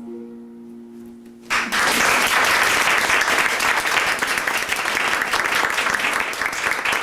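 The song's last chord rings and fades, then about a second and a half in an audience breaks into applause that continues steadily.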